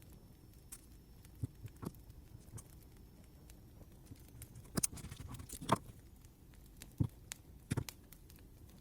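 Scattered, irregular light clicks and taps over a faint steady hiss, with a brief flurry of louder ones a little past the middle.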